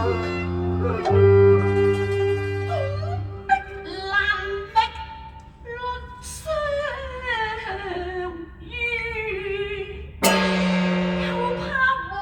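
Cantonese opera music: string accompaniment holding long notes over a low drone, then, from about three and a half seconds in, a high voice singing a winding, ornamented melody over it.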